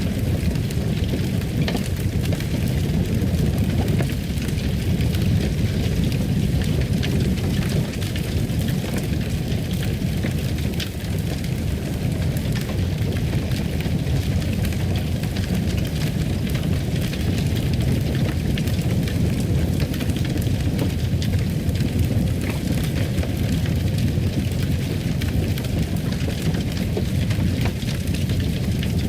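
Fireplace fire crackling: a steady low rush of burning with small pops and snaps scattered through it.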